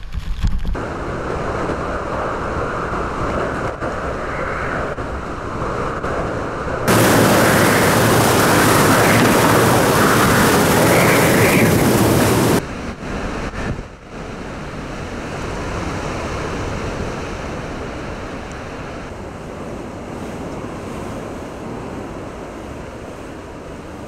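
Typhoon wind and sea noise, a steady rush with no distinct tones. From about seven to twelve seconds in it turns much louder and harsher, starting and stopping abruptly.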